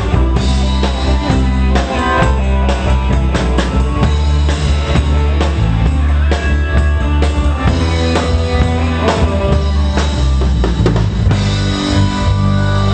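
A live pop band playing through a PA: drum kit with bass drum and snare over a bass line, guitar and keyboards.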